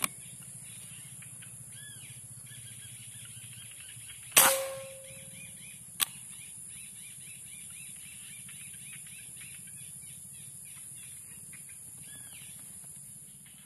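A single air rifle shot about four and a half seconds in, a sharp crack with a brief ringing tail, followed about a second and a half later by a short click. Birds chirp faintly over a steady high hiss.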